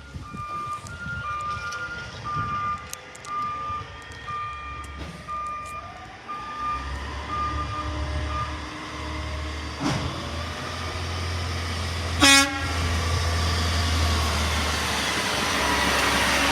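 Garbage truck's reversing alarm beeping about twice a second, stopping after about eight seconds as the truck's engine revs up and pulls away. A short horn toot comes about twelve seconds in, and the truck's noise grows louder near the end.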